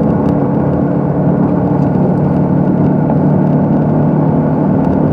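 Inside a moving car: a steady engine and road drone.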